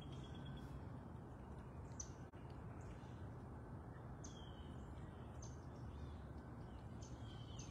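Quiet outdoor background with a steady low hum and faint bird calls: short high chirps every second or so, and a rapid buzzy trill at the start and again near the end.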